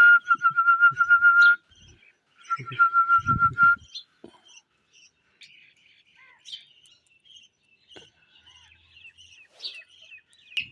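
Pet parrot whistling and chirping: two long, steady, warbling whistles in the first four seconds, then a string of short, quieter chirps.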